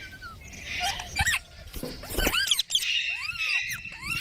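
Baby green parrot calling: a string of short squeaky chirps that rise and fall in pitch, with raspy squawks between them.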